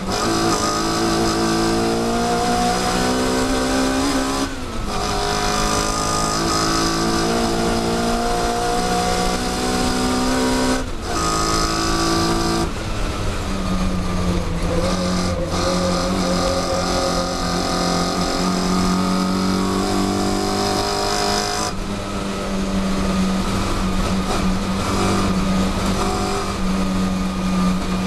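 Classic Mini Cooper S four-cylinder A-series engine at full throttle, heard from inside the car. The pitch climbs and drops back with an upshift twice in the first eleven seconds, then holds high and fairly steady, with a short break about three-quarters of the way through.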